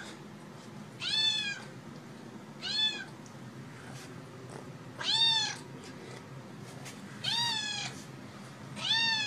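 Kitten meowing five times, high-pitched calls that each rise and then fall in pitch, spaced about two seconds apart.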